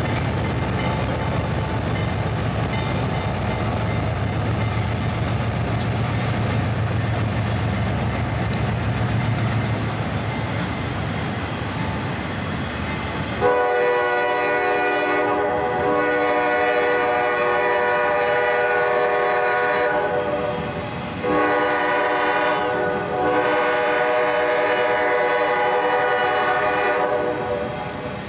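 A diesel freight train passing, its locomotive engines giving a low rumble over the steady rolling noise of the cars. About halfway a multi-chime locomotive air horn starts suddenly and sounds in long blasts, with a short break about two-thirds through, stopping near the end.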